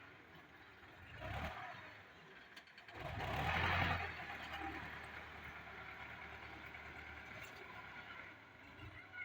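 Tractor engine running, with the sound swelling loudest about three to four seconds in, as when it passes close, then settling to a steady hum.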